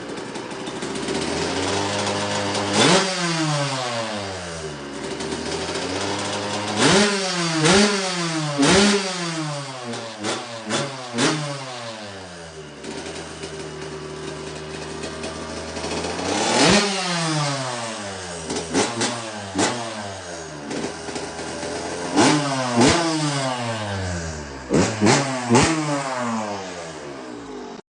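A 2006 Suzuki RM125's single-cylinder 125 cc two-stroke engine, with a Pro Circuit ported cylinder and a racing head, being revved with a crisp sound: sharp throttle blips, some in quick bunches, each falling back to a steady idle, with the longest idle in the middle.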